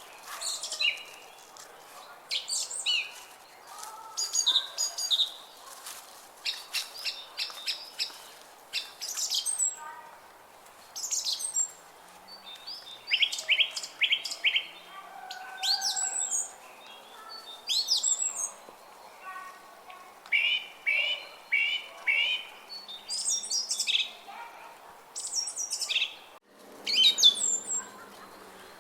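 Several songbirds singing and chirping, short phrases one after another, many of them quick runs of high falling notes.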